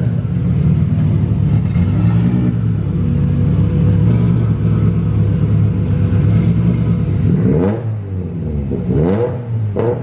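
Straight-six 2JZ engine in a Nissan 240SX running steadily under load, then its revs sweep up and down near the end.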